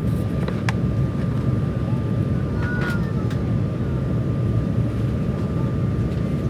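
Steady low rumble inside the cabin of an Embraer 195 jet airliner in flight, from engine and airflow noise, with a faint steady tone above it and a couple of small clicks.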